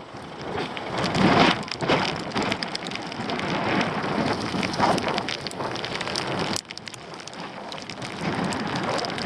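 Rain falling, with many sharp raindrop ticks over a rushing noise that swells in the first couple of seconds; the sound drops away suddenly about two-thirds through, then picks up again.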